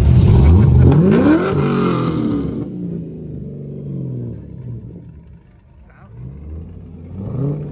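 A car engine revving hard as the car accelerates, its pitch climbing over the first second or so, then easing off and fading, with a brief rev near the end.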